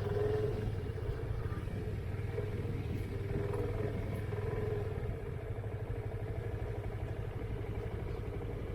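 Motorcycle engine running steadily at low revs, a little quieter from about five seconds in.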